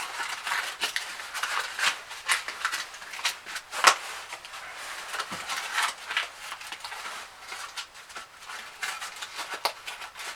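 Knife scraping and shaving wood into fine shavings for fire tinder: a run of short, irregular scraping strokes, with a louder one about four seconds in.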